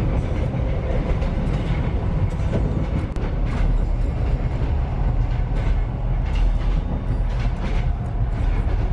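Sleeper train running along the track, heard from inside the carriage: a steady low rumble with scattered clicks.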